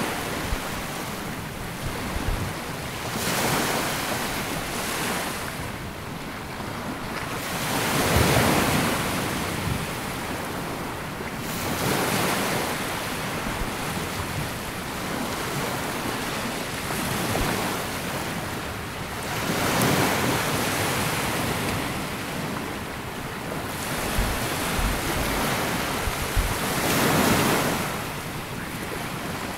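Small sea waves washing onto a sandy beach, the surf swelling and falling every few seconds, with some wind buffeting the microphone.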